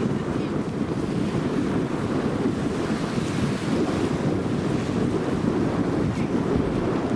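Wind buffeting the microphone over the steady rush of sea waves, heard aboard a sailing yacht under way.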